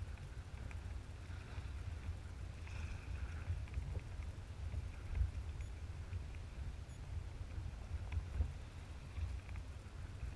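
Low, gusting rumble of wind on the microphone, with scattered small water splashes and drips around a kayak.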